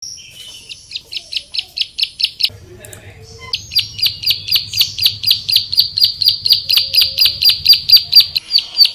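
Ciblek sawah (a prinia) singing a rapid, even series of sharp high chirps, about five a second, with a pause of about a second before it starts again.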